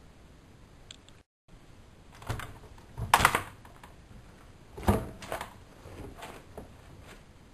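A handful of sharp clicks and knocks at uneven intervals, the loudest a cluster about three seconds in and another strong knock about five seconds in.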